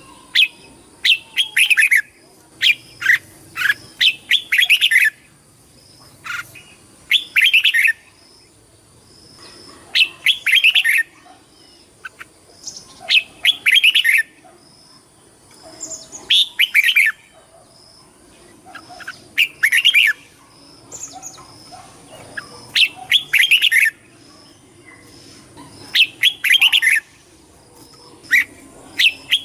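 Red-whiskered bulbul singing: short, bright phrases of a few quick warbled notes, repeated about every three seconds.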